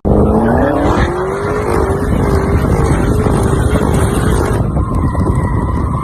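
Car engine accelerating, its pitch rising over the first second or so and then holding roughly level with a slight waver; near the end a higher steady tone takes over.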